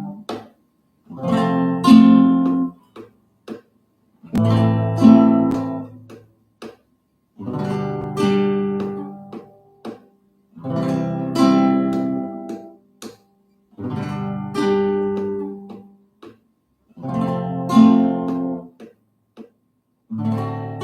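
Acoustic guitar strumming chords in short groups. Each chord rings for about two seconds and is then damped, with a new group starting roughly every three seconds as the chords change.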